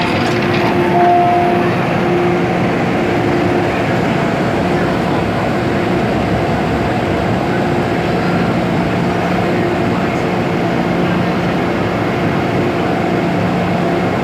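MTR M-Train electric multiple unit running between stations, heard from inside the car: a steady rumble of wheels on track with a constant hum of the traction equipment.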